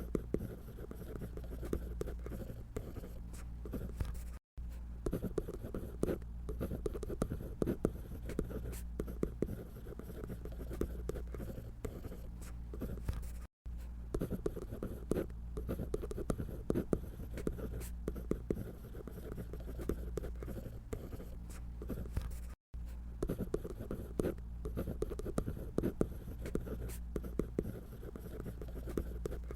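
Drawing on paper: a stream of quick, irregular scratchy strokes from a drawing tool, broken three times by a brief moment of silence.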